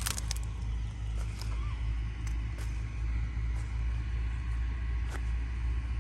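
Fiat 480 tractor's three-cylinder diesel engine idling steadily, with a brief clatter right at the beginning.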